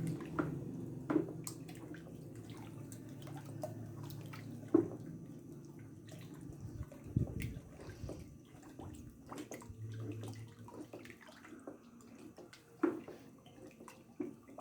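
Liquid soap batch of tallow, used frying oil, ethanol and lye being stirred in a bucket: sloshing and splashing, with a few sharp knocks of the paddle against the bucket. The batch is starting to saponify.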